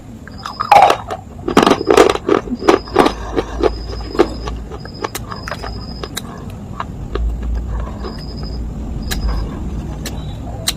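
Dried clay and slate chunks being crunched: a quick run of sharp, crisp cracks in the first few seconds, then sparser, quieter cracks. Short high beeps repeat in the background over a low rumble.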